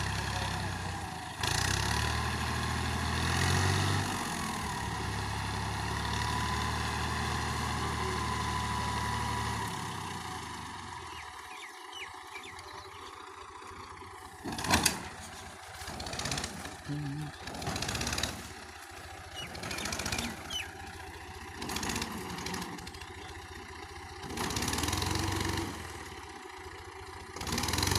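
Tractor engine running steadily, then dying away about ten seconds in. It leaves quieter, uneven sounds and a sharp click about halfway through.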